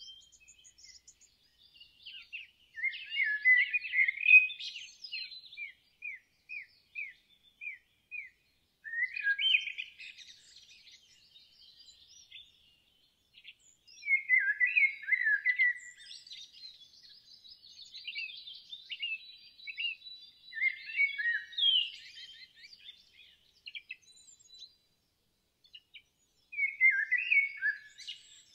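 Songbirds singing in separate phrases of chirps and trills every few seconds, including a run of short down-slurred notes a few seconds in.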